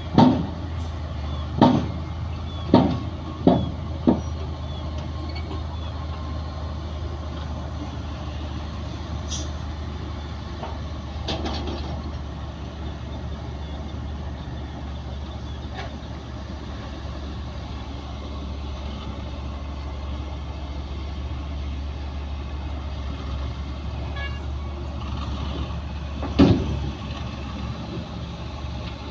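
Bulldozer's diesel engine running steadily at a low drone, with several sharp knocks in the first few seconds and one more near the end.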